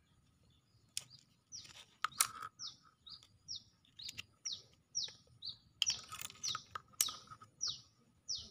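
A small bird calling over and over, a short high chirp falling in pitch each time, about two a second. Now and then sharp clicks of small plastic parts and a glue bottle being handled.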